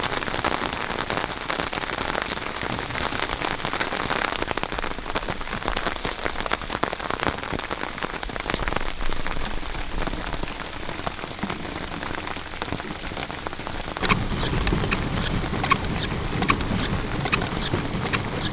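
Steady rain falling on a small pedal boat's fabric bimini top and the lake around it, a dense hiss full of separate drop hits. About fourteen seconds in it grows fuller and heavier, with louder, sharper drop strikes.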